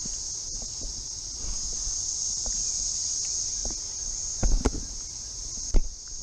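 A chorus of cicadas, a steady high drone, with a few short thumps about four and a half and nearly six seconds in.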